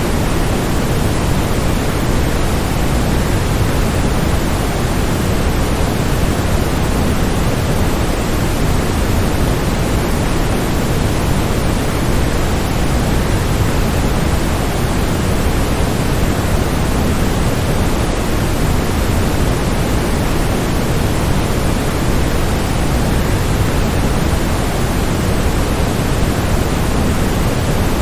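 Waterfall white noise: a steady rush of falling water, an even hiss heaviest in the low end, with no splashes or changes.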